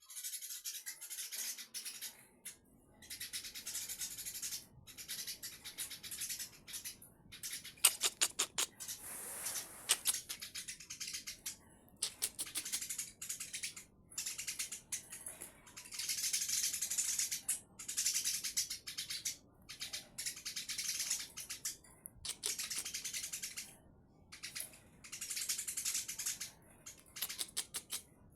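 Male and female Eurasian tree sparrows chirping and chattering in fast, dry, high-pitched bursts of one to two seconds with short gaps between.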